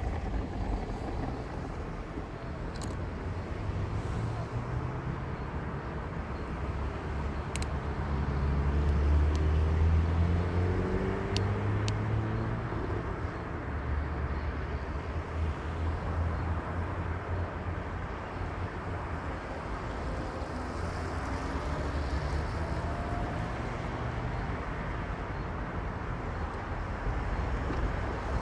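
A car driving, with a steady low engine rumble and road noise. The engine pitch rises as the car accelerates about a quarter of the way in and again past the middle.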